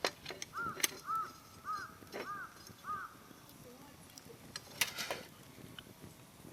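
A crow cawing five times in an even series over a wood fire's crackling, with sharp pops of burning firewood at the start, about a second in and about five seconds in.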